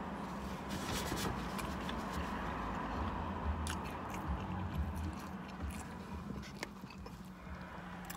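A person chewing food (fries and a fried chicken sandwich) with soft mouth clicks and smacks scattered throughout, over a low steady hum.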